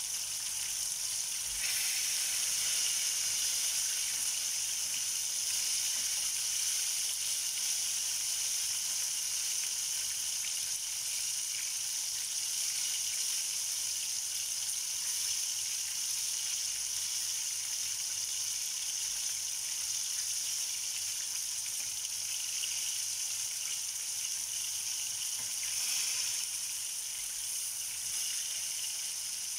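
Coated chicken wings frying in hot oil in a pan: a steady sizzle that grows louder about two seconds in and swells briefly near the end.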